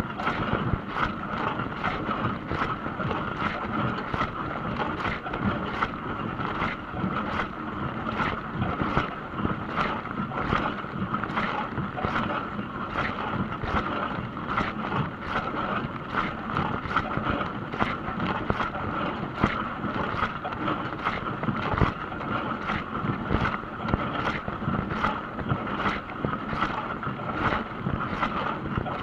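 Dishwasher running its wash cycle: water from the spray arms splashing steadily against the racks and tub, with constant sloshing.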